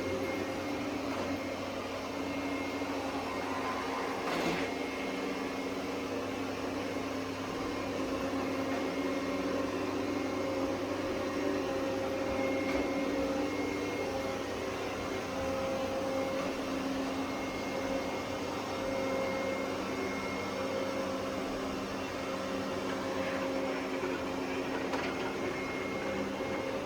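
Roborock Qrevo S robot vacuum running: a steady motor hum with several steady tones through it, and a single brief knock about four and a half seconds in.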